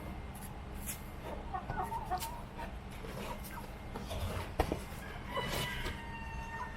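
Chickens clucking softly, with a longer drawn-out call near the end and one sharp knock a little past halfway.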